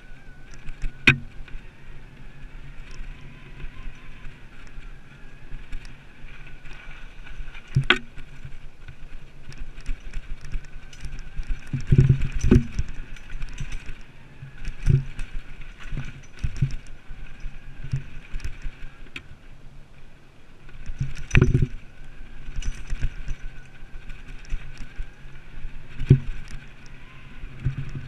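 Mountain bike riding over a rough dirt trail: a steady rumble of tyres and drivetrain, broken by sharp knocks and rattles as the bike hits bumps, the loudest about 12 and 21 seconds in.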